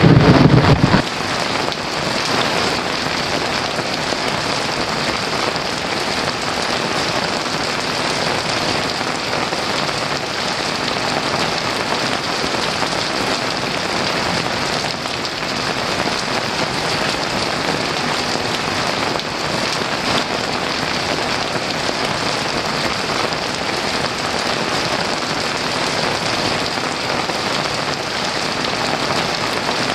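Heavy rain falling steadily on a roof, an even downpour. A low rumble of thunder cuts off suddenly about a second in.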